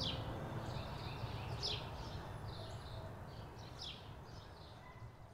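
A bird calling: a sharp, falling chirp about every two seconds with softer notes between, over a low background rumble, all gradually fading out.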